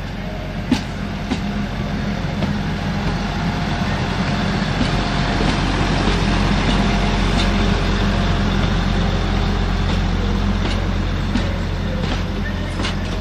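Class 175 two-car diesel multiple unit running in the station, its diesel engines giving a steady low hum under a wash of rolling noise. It grows louder over the first few seconds, with a few scattered clicks from the wheels.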